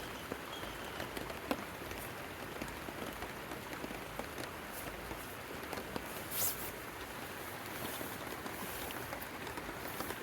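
Steady heavy rain falling, with scattered sharp drop ticks and a brief louder hiss about six and a half seconds in.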